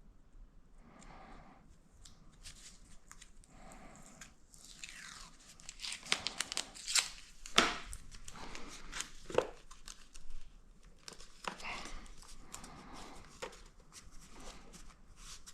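Adhesive tape being pulled off a roll and torn: a run of short rips and sharp clicks, busiest in the middle.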